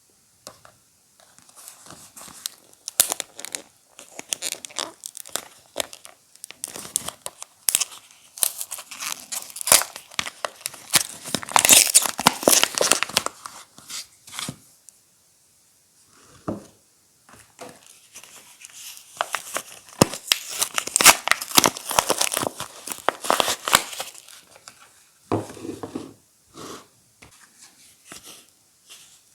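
Soap wrappers being torn open and crinkled by hand, with bursts of rustling and tearing in two busy stretches and short pauses between.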